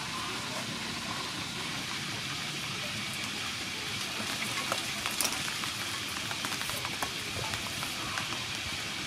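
Pork frying in hot soybean oil: a steady sizzle with scattered small pops and light taps.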